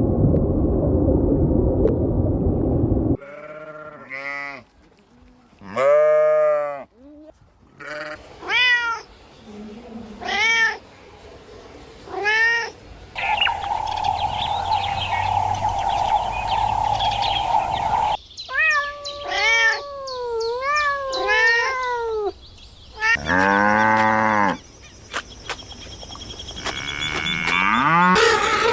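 A string of cat meows, each a short call that rises and falls in pitch, with cuts between them. It opens with about three seconds of loud low rumbling, and a steady hum runs in the middle.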